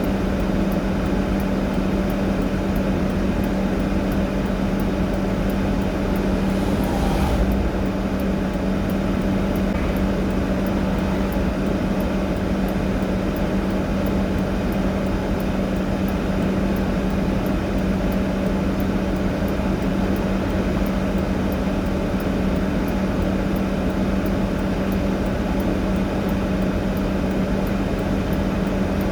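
A vehicle engine idling steadily, a constant low hum, with a brief rustle or clatter about seven seconds in.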